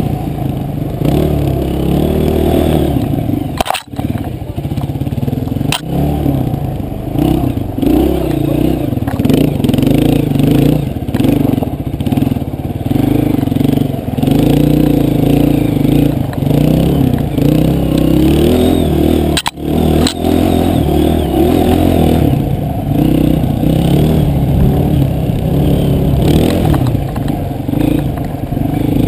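Enduro dirt bike engine heard from the bike itself, revving up and down continuously over a rough trail, its sound muffled. The sound cuts out briefly twice, about 4 and 20 seconds in.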